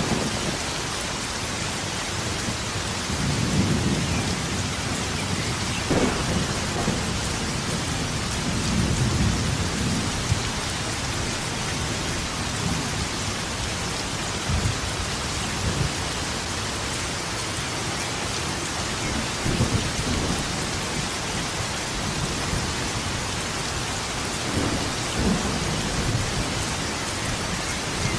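Steady heavy rain with thunder rumbling low through it several times. There is a sharper crack about six seconds in.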